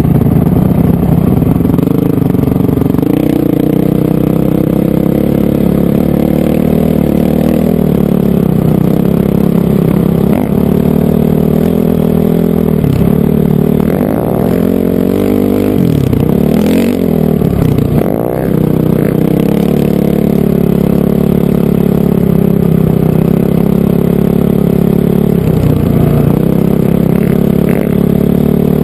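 Loud Honda CRF450R single-cylinder four-stroke dirt bike engine running under way. The engine pitch swings up and down several times with the throttle in the middle stretch, then steadies again.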